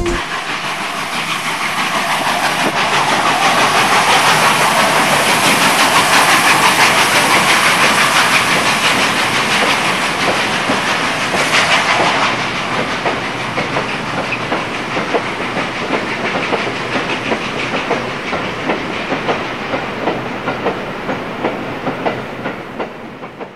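Sound effect of a freight train of wagons passing, wheels clacking over rail joints with a hissing rush. It swells over the first several seconds, then slowly fades away as the train goes by.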